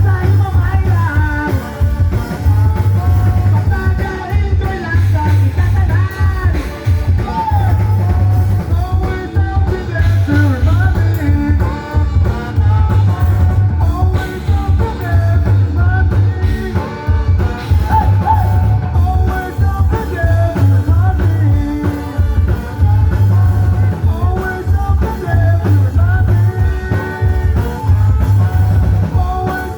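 Rock band playing a song with a lead singer, over heavy, pulsing bass and drums.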